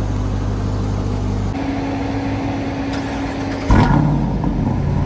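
A motor vehicle's engine running steadily. Its note changes about a second and a half in, and a sudden loud knock just past the middle is followed by a short swell before it settles on a new steady note.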